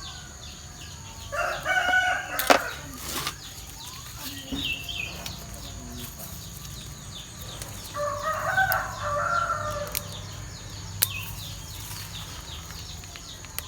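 Rooster crowing twice, a shorter crow near the start and a longer one about eight seconds in, with a few sharp clicks in between.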